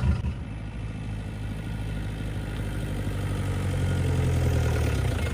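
Hindustan Ambassador car engine running steadily, growing gradually louder.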